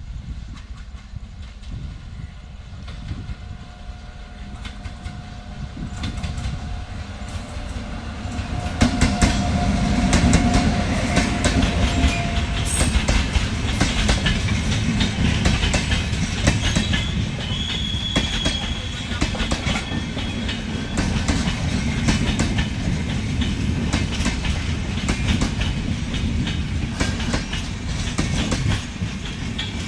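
Express passenger train hauled by a WAP-7 electric locomotive approaching and passing close by as it runs through a turnout. A rumble builds and gets loud about nine seconds in, then the coaches run past with a steady rattle and quick clicks of wheels over rail joints and points.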